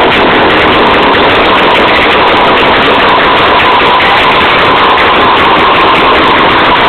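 Engine running loud and steady at a held speed, its pitch dipping slightly around the middle and coming back up.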